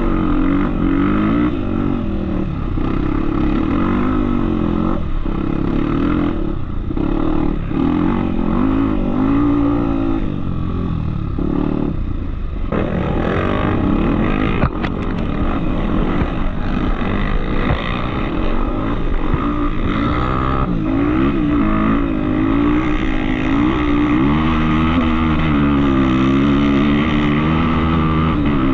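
Off-road trail motorcycle engine running under riding load, its revs rising and falling over and over as the throttle is worked. There is a brief knock about halfway through.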